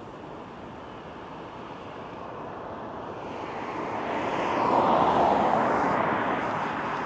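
A car passing close by: its road noise swells to a peak about five seconds in, then fades.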